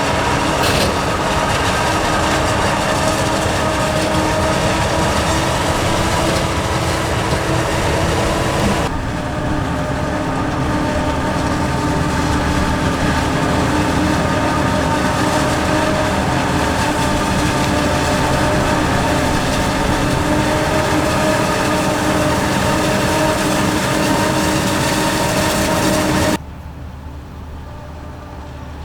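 Heavy diesel farm machinery running steadily, a low rumble with several steady tones on top. The sound changes abruptly about nine seconds in and drops much quieter near the end.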